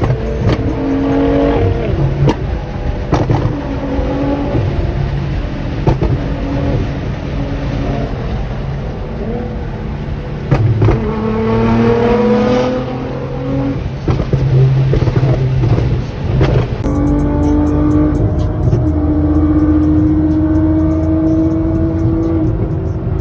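Sports car engine and exhaust under hard acceleration, the pitch climbing and dropping again and again through gear changes, with sharp pops and cracks from the exhaust. Near the end the engine holds a steadier pitch.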